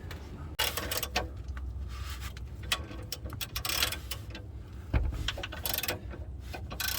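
Mechanical clicking and rasping of a jack being worked under the car, in irregular short strokes, with a heavier thump about five seconds in.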